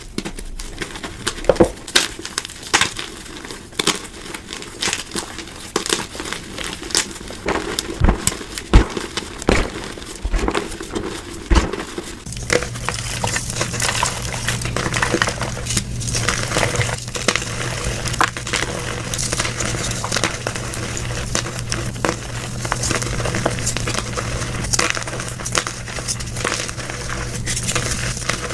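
Blocks of gym chalk being crushed and crumbled, sped up to double speed: sharp separate crunches and snaps for about the first twelve seconds, then, after a sudden change, a denser continuous crumbling over a steady low hum.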